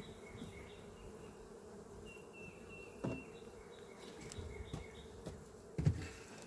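Honeybees buzzing steadily around an open hive, with a couple of short soft knocks about three seconds in and again near the end.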